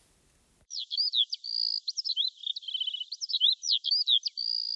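Bird song: a rapid run of clear, high whistled notes, sweeping up and down, with short trills and a few held whistles, starting about half a second in. It sounds thin, with no low end.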